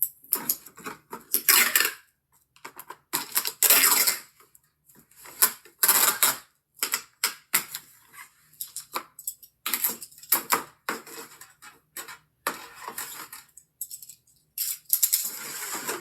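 Irregular bursts of clattering and rustling as a small plastic appliance and its packaging are handled, with short pauses between.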